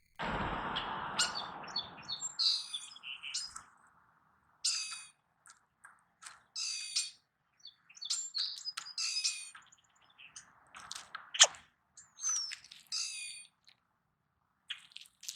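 Songbirds calling: a string of short chirps and harsher calls, about a dozen in all, with gaps between them. A rush of noise fills the first couple of seconds, and a single sharp click comes near the end.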